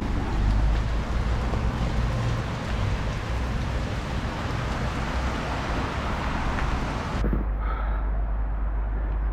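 Wind rumbling over the microphone while cycling through rain and hail, with a steady hiss over it. About seven seconds in, the hiss's highest part cuts off abruptly and the low wind rumble continues.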